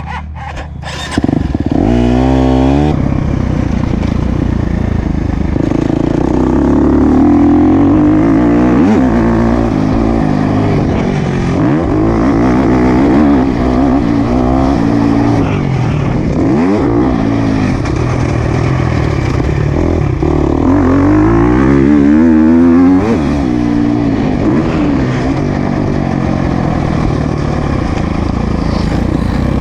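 Motocross bike engine starting up about a second in after stalling, then revving up and down repeatedly as the bike is ridden round the track and shifted through the gears.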